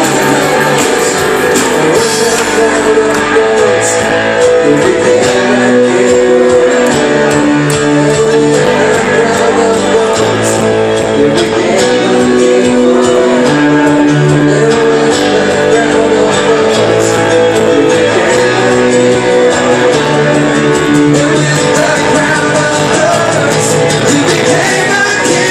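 Live worship band playing an instrumental passage, with guitar strumming chords over a steady beat, recorded loud on a phone.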